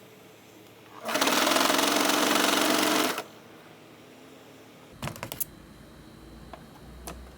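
Electric sewing machine running steadily for about two seconds, stitching a seam. A few light clicks follow near the end.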